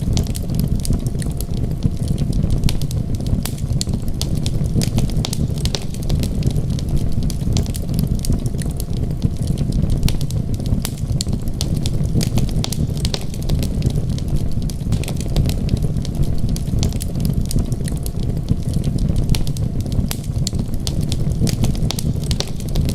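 Wood fire crackling, with many small, sharp, irregular pops over a steady low rumble.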